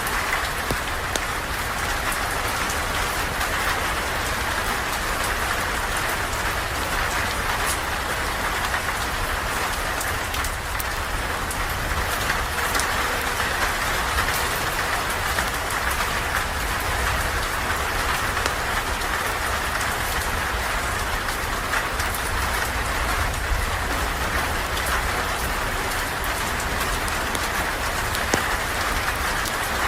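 Steady rain falling, with a low rumble underneath and scattered sharp ticks throughout.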